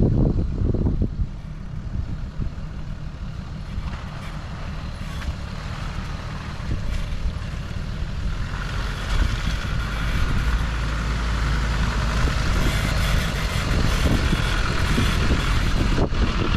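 4x4 vehicle driving slowly along a muddy track, its engine running with a steady low rumble. A hissing noise rises and grows louder from about halfway through.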